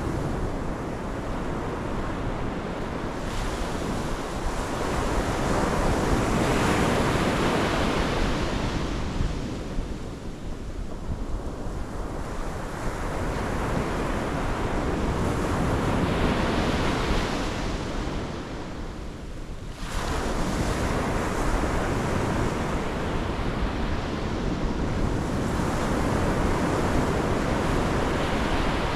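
Pacific Ocean surf breaking and washing on the shore, swelling and ebbing every several seconds. One wave comes in with a sudden surge about two-thirds of the way through.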